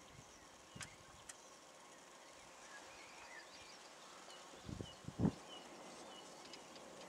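Faint outdoor field ambience with a small bird giving a run of short, high chirps at an even spacing through the second half. Two dull low thumps come about five seconds in.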